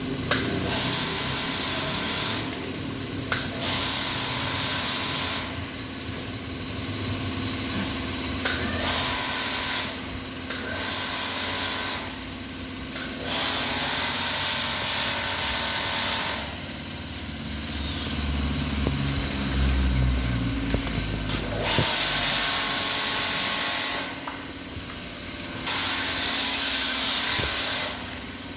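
High-pressure washer spraying water onto a car in repeated spells of one to three seconds with short pauses between them, over the steady hum of the washer's pump.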